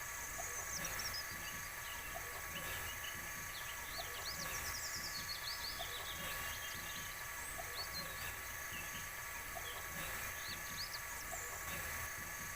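Small birds chirping and twittering in quick, scattered calls over a steady background hiss and faint hum.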